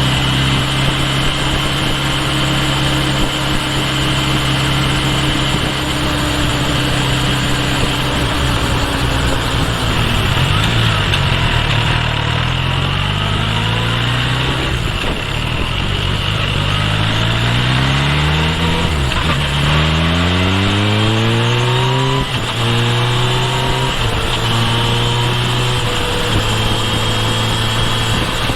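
Kawasaki Ninja H2 SX's supercharged inline-four running at a steady low note for about nine seconds. It then accelerates through several gears, the revs climbing and dropping at each shift, and settles into a steady note again for the last few seconds.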